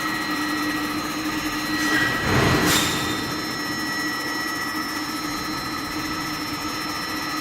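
Induction hardening line for steel tie plates running: a steady multi-tone electrical hum and whine over machinery noise, with a louder noisy surge about two seconds in.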